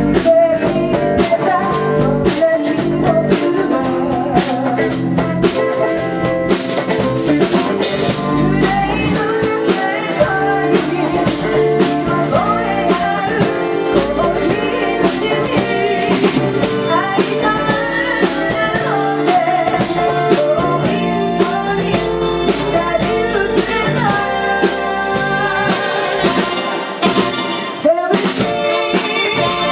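A live band plays a city pop song, with a drum kit keeping a steady beat under bass, guitar and keyboards. A sung melody runs over the top, with a brief dip in the music near the end.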